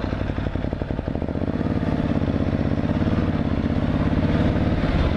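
Motorcycle engine running with a steady rumble. Its note grows stronger about a second and a half in.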